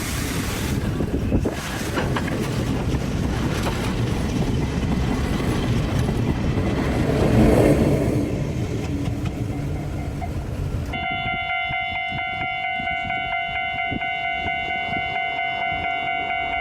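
A freight train passing a level crossing: loud, steady rumble and rail noise that swells briefly about three-quarters of the way in. The sound cuts off abruptly and gives way to a Japanese level-crossing's electronic warning bell ringing in a steady, rhythmic clang.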